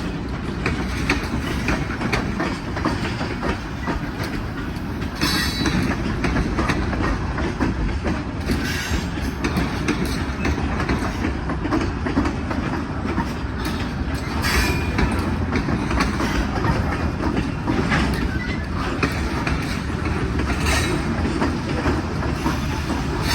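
Freight cars of a manifest freight train rolling past with a steady rumble and clatter of wheels on rail. A few brief, sharper, higher sounds stand out now and then.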